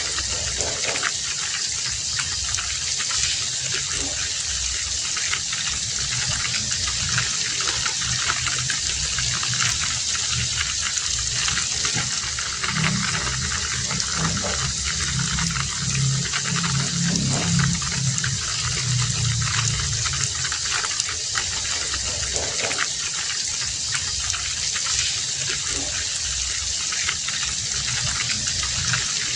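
Heavy rain falling steadily. A low hum swells about twelve seconds in and fades again some eight seconds later.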